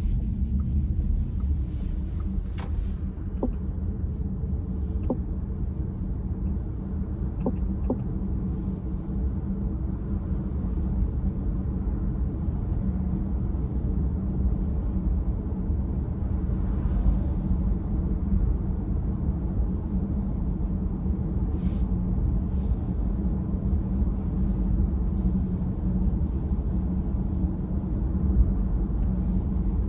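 Car running, heard from inside the cabin: a steady low rumble of engine and road noise, with a few faint short clicks in the first few seconds and two brief ticks later.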